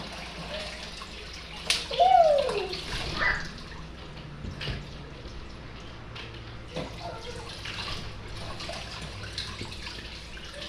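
Tap water running steadily into a sink while crabs are rinsed and cleaned, with small knocks and clicks of handling. About two seconds in, a sharp click and a short, loud falling squeal.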